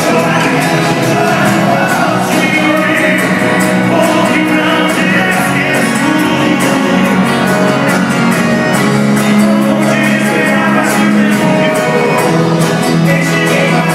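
Live sertanejo band music with singing, loud and unbroken, with some shouts from the audience.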